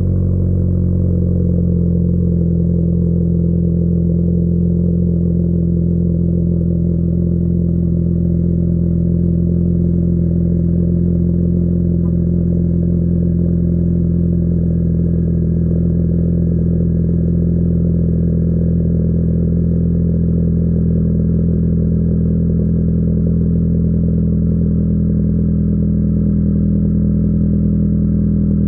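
Jeep Patriot's four-cylinder engine idling steadily through a muffler-deleted exhaust, a loud, even low drone.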